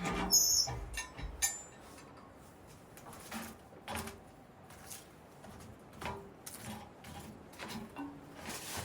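Irregular light clicks and knocks, several close together in the first second and a half, then spaced about a second apart.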